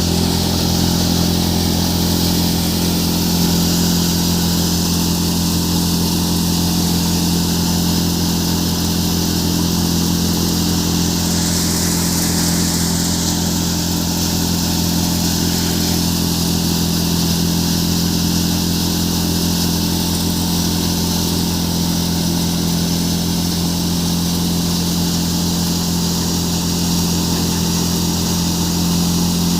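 Farmtrac tractor engine running steadily under load, driving a threshing machine that is threshing chickpeas, with a steady hum and the hiss of the thresher.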